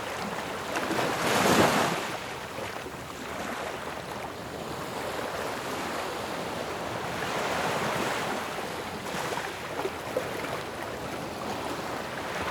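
Ocean waves crashing: one wave breaks loudly about a second and a half in, followed by a steady wash of surf that swells again around the middle.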